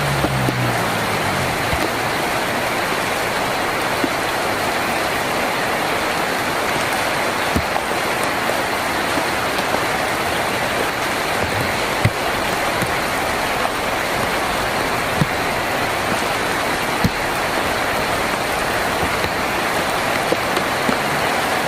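Heavy rain on a tin roof: a steady, dense hiss with scattered sharper single drop strikes. A low rumble dies away in the first second.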